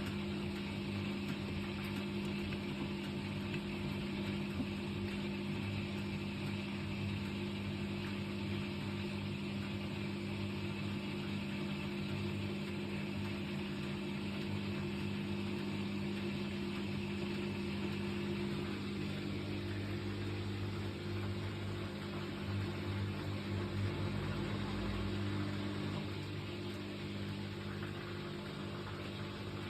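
Washing machine running, a steady motor hum with a low drone that swells about two-thirds of the way through. The machine is one that shakes badly as it runs.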